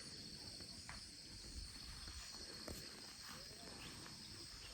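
Steady, high-pitched chorus of insects, such as crickets, shrilling without a break, with a few faint ticks.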